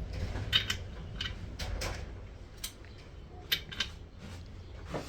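Irregular metallic clicks and light knocks of hand tools on a Subaru EJ20 short block as the crankshaft, binding after the block bolts were torqued, is forced and worked to get it turning. About eight separate clinks are spread over a low steady hum.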